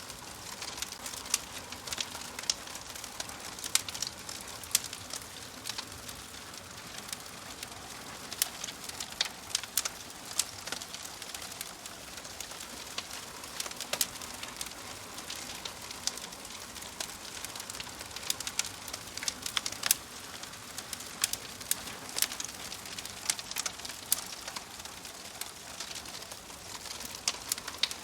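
Wood fire crackling: a steady hiss with irregular sharp pops and snaps.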